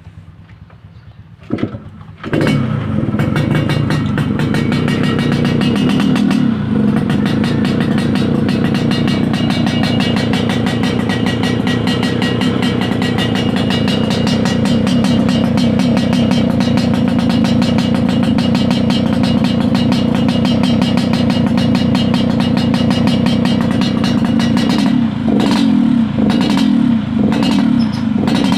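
Yamaha RX-King's single-cylinder two-stroke engine, tuned for a 'ngorok' (snoring) exhaust note. It is quiet for the first two seconds, then comes in loud about two seconds in and holds a steady, fast-pulsing high run. Near the end the revs dip and blip several times.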